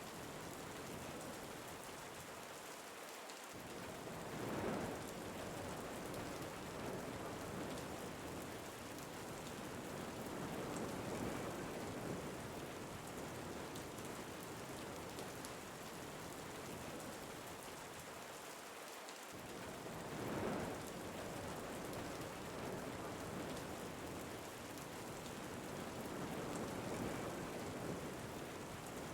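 Steady rain falling, with wind swelling up in two gusts, one about five seconds in and another about twenty seconds in.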